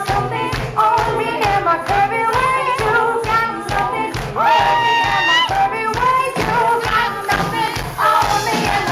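Live band music with a steady, thumping drumbeat and sung melody lines, including a long held note that slides up into pitch about halfway through.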